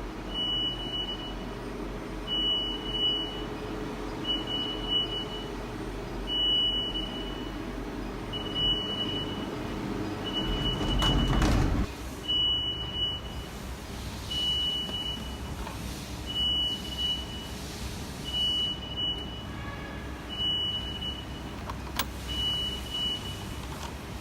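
Machine-shop machinery running with a steady hum, and a short high beep repeating about every two seconds. The machine noise swells about eleven seconds in, then drops off abruptly.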